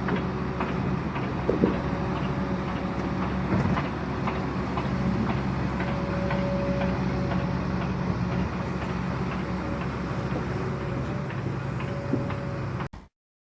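Excavator-mounted hydraulic vibratory pile driver working: a steady low mechanical hum with scattered clanks. It cuts off suddenly near the end.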